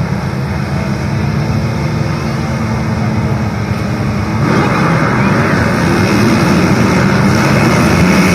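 Motocross bikes' engines running at a dirt track, a steady loud engine drone that grows fuller and a little louder about halfway through.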